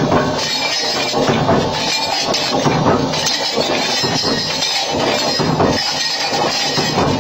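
Hinge-making machinery running, with a steady, dense clatter and clinking of metal parts.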